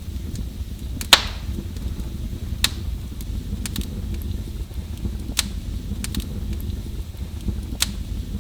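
Fire burning in a fireplace, crackling over a steady low rumble, with sharp pops at irregular intervals, the loudest about a second in.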